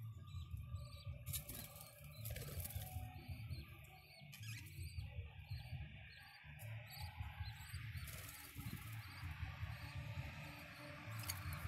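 Budgerigars chirping and chattering in short bursts, with a few brief rustles, over a steady low rumble.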